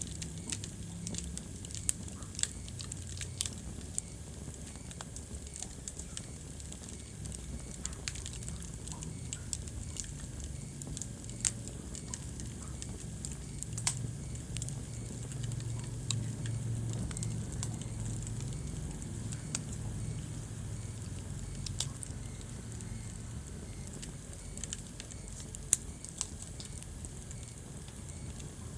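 Wood fire burning in a fireplace, crackling with scattered sharp pops over a low, steady rumble of the flames.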